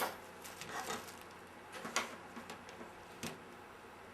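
A few faint, sharp clicks and taps of small tools and materials handled on a work surface, three of them standing out, over quiet room tone.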